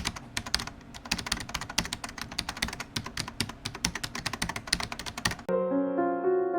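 Rapid computer-keyboard typing, a dense stream of clicks, which stops abruptly about five and a half seconds in as piano music begins.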